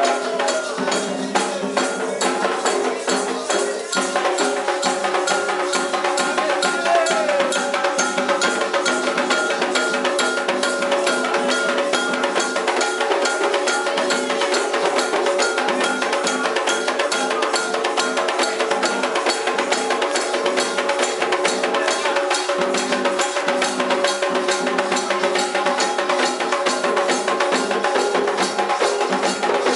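Candomblé ritual drumming for Xangô: drums and other percussion keeping a fast, steady rhythm under a sung chant.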